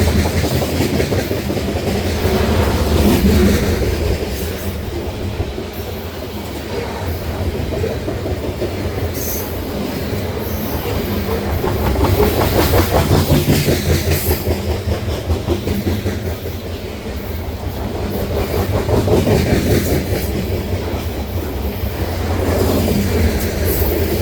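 Long freight train rolling past, its car wheels clattering over the rail joints in a steady, quick rhythm over a continuous low rumble.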